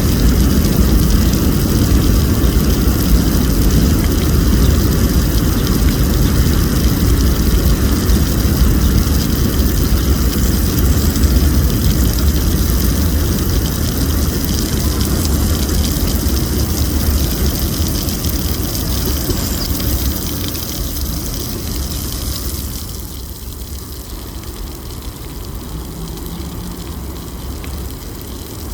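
Low, heavy rumble of city traffic that dies away about twenty seconds in, leaving a steady hiss of background city noise.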